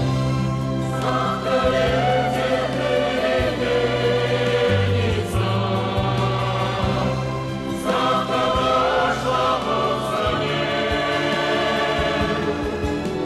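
Music: a choir singing wordless sustained chords over a steady bass line.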